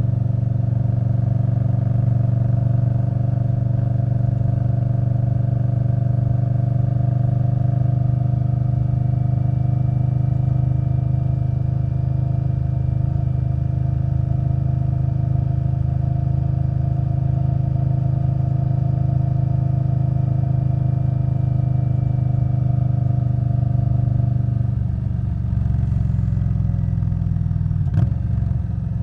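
2021 Indian Scout Bobber Twenty's V-twin engine running steadily through its Vance & Hines Twin Slash exhaust, the note holding one pitch while riding at a steady speed. About 25 seconds in, the engine note changes and drops, and a sharp click sounds near the end.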